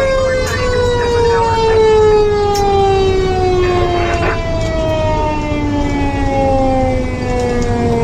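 Fire engine siren wailing, its pitch falling slowly and steadily over several seconds, over a low engine rumble.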